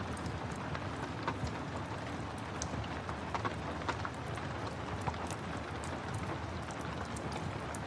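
Steady rain with the irregular crackle and sharp pops of a wood fire.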